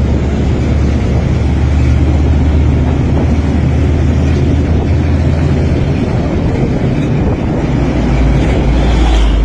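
Heavily loaded container truck's diesel engine labouring up a climb, a loud deep drone. About six to seven seconds in its low note dips and settles slightly lower, then carries on strong.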